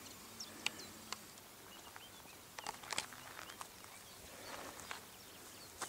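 Faint outdoor ambience with a few short, high bird chirps and scattered sharp clicks, the clicks clustered around two to three seconds in.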